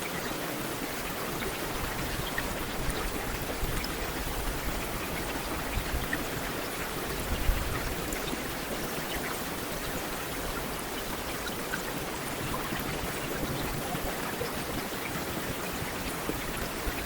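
Heavy rain falling steadily, a dense hiss with scattered individual drops ticking, one a little louder about seven and a half seconds in.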